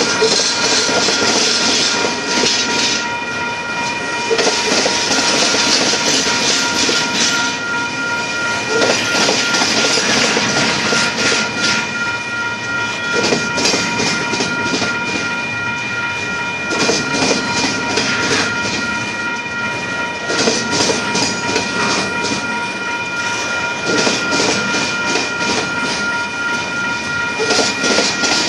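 Union Pacific double-stack container train rolling past, its wheels clicking over the rail joints with a continuous rumble and clatter that swells and eases as each car's wheel sets go by. A steady high ringing tone runs under it.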